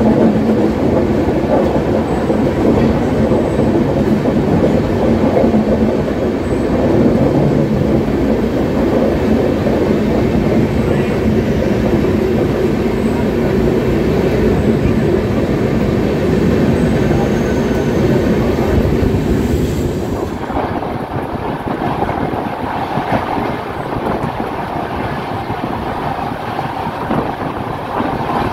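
Running noise of an express train heard at an open coach doorway: a steady loud rush of wind and steel wheels on rail, with some clickety-clack. About 20 seconds in the sound drops a little and turns thinner.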